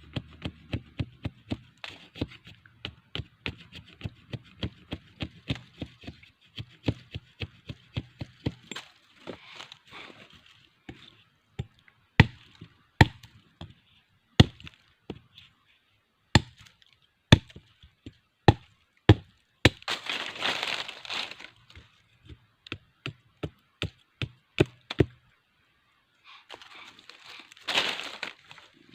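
A blade chopping wood, likely sticks being cut for a bird trap. First a run of quick light chops, about two or three a second; then slower, louder single strikes a second or so apart; near the end, two short hissing bursts.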